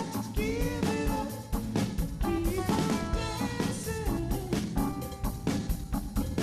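Rock band music: a drum kit keeping a steady beat under guitar, with a melodic line sliding up and down in pitch.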